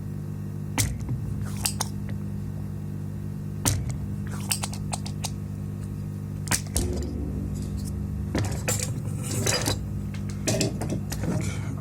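Small metal tools and electronic parts clicking and clinking on a workbench in scattered, irregular taps, more of them near the end, over a steady low electrical hum.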